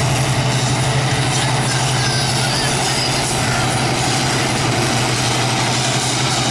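A competition pulling tractor's heavy engine running steadily at a low, even pace with a fast pulse, like a loud idle.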